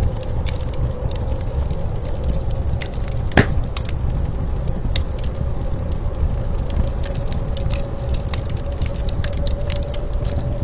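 Wood fire crackling with scattered small pops and one louder pop about three and a half seconds in, over a steady low rumble of blizzard wind that carries a faint constant whine.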